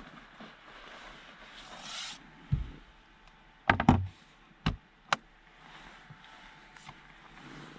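Things being handled inside a car's cabin: a short rustle, then a scatter of sharp clicks and knocks, the loudest a quick cluster a little past the middle.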